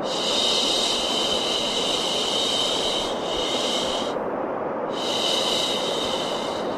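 Steady white noise for baby sleep, with a higher, shushing hiss laid over it that drops out for under a second about four seconds in and then comes back.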